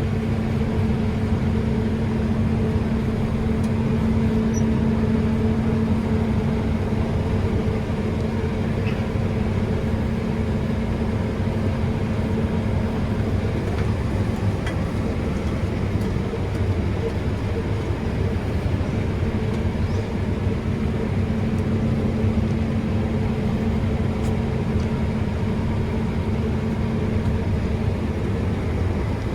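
Combine engine running at a steady speed, heard from inside the cab as an even drone with a constant low hum.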